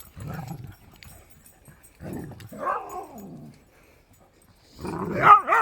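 Dogs giving short pitched cries: one falling in pitch about two seconds in, and a louder one near the end, after a brief low sound at the start.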